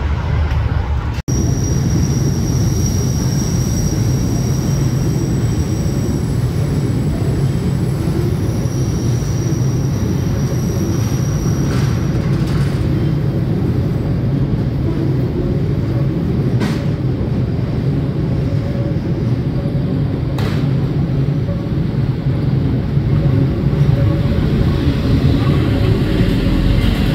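Chicago 'L' rapid-transit train running on the elevated steel structure: a steady low rumble, with a thin high wheel squeal coming and going in the first dozen seconds and two sharp clacks later on.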